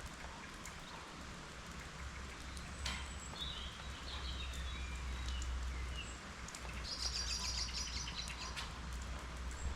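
Rain falling steadily with scattered drop ticks, while small birds chirp a few times and give a short trill near the end; a low steady hum sits underneath.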